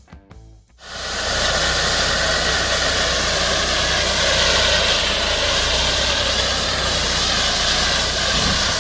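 Background music breaks off, and about a second in a loud, steady vehicle noise takes over: a continuous hiss of road and wind noise over a low engine rumble, as heard on a moving vehicle's dashcam.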